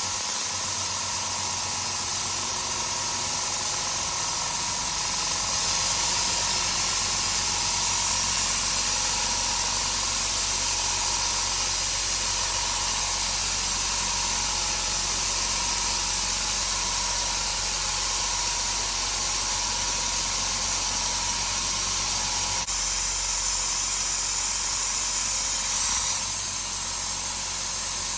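Compressed air blowing continuously from an air blow gun held open with a cable tie, a steady loud hiss, with the SIP QT100 low-noise air compressor running underneath as it tries to sustain the pressure.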